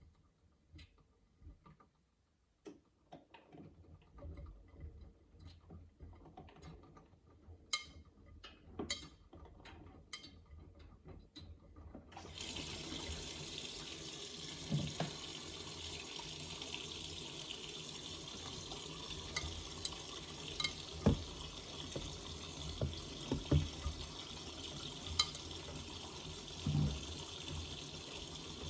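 Miele W3985 washing machine taking in water for the final rinse with softener. After a quiet stretch with faint clicks, the inlet valve opens about twelve seconds in and water rushes in steadily, with a few soft thumps.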